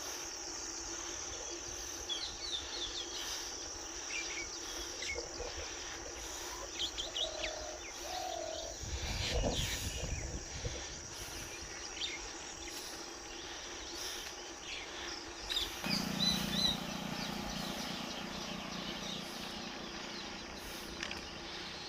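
Birds chirping in short calls over a steady high-pitched insect drone, like crickets. A low rumble rises briefly about nine seconds in, and a steady low hum joins about sixteen seconds in.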